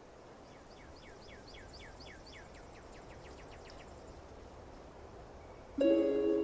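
Soft outdoor ambience fading in, over which a bird sings a fast trill of downward-sweeping chirps, about five a second, that fades away after about four seconds. Near the end, harp music starts loudly.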